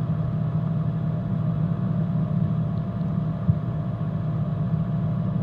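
Coleman mobile home furnace running with a steady low hum, with one sharp click about three and a half seconds in, during its start-up sequence before the burner lights.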